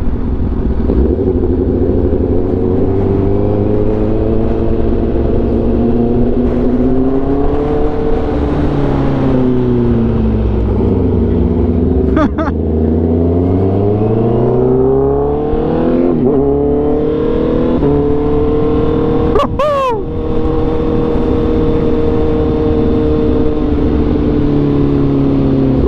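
Superbike engine running under way, its revs falling about eight seconds in, then climbing again and holding steady.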